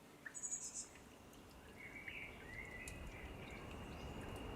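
Faint outdoor background hum with small birds chirping: a quick run of high chirps about half a second in, then softer twittering around two to three seconds in.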